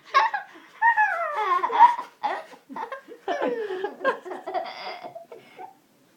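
Young children laughing and squealing in a series of short high-pitched bursts, several with the pitch falling, loudest in the first two seconds.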